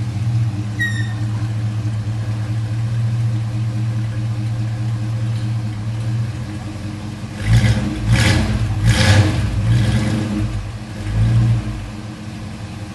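Ford Maverick's 302 V8 idling through an exhaust of short headers, an X-pipe and two mufflers. About seven and a half seconds in it is revved in four quick throttle blips, then settles back to idle.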